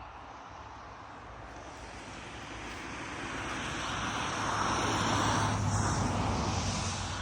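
A passing engine-driven vehicle, growing louder to a peak about five seconds in and then fading, its pitch dropping as it goes by.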